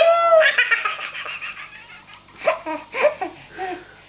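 A baby laughing: a long run of rapid belly laughter at the start, then shorter bursts of laughter from about halfway through.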